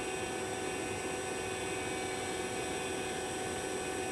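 Vacuum pump running steadily with a hum and several steady tones, evacuating a heat pump's refrigerant circuit after a leak repair as the system nears deep vacuum.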